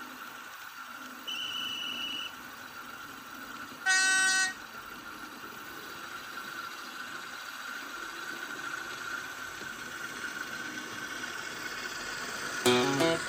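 Model locomotive running with a steady faint whine, giving a short high beep about a second in and a brief horn toot about four seconds in; music starts right at the end.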